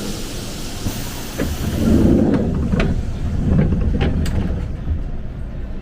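Ex-Tokyo Metro 6000-series electric commuter train, heard from inside: a hiss of air, then a low rumble builds as the train runs, with a series of sharp clicks and knocks from the running gear before it eases off.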